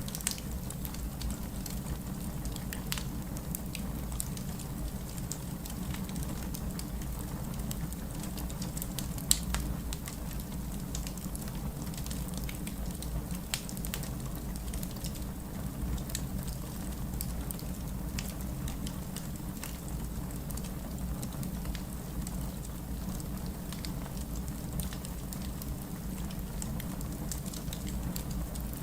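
Wood fire crackling with irregular sharp pops, one louder pop about nine seconds in, layered over steady rain and a low rumble.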